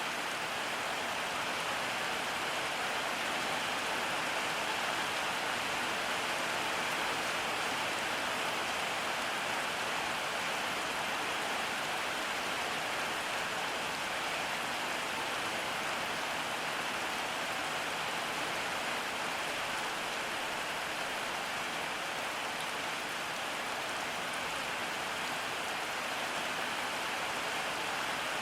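Steady rain falling, an even hiss of drops on surfaces with no breaks or distinct drips.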